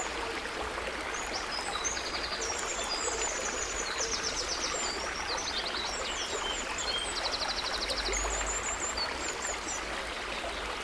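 A forest stream running steadily, with several songbirds chirping and singing high above it, including a few quick trills.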